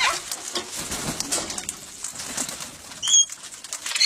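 Wild parrots calling, with one short, loud call about three seconds in.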